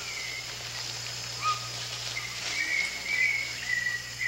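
Rainforest ambience: short whistled bird calls, a few falling and wavering notes that come more often in the second half, over a steady high buzz of insects.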